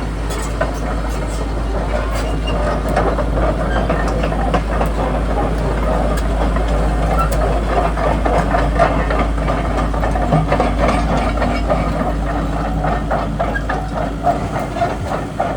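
Volvo EC140B LC crawler excavator running, its diesel engine going steadily under many short metallic knocks and clanks.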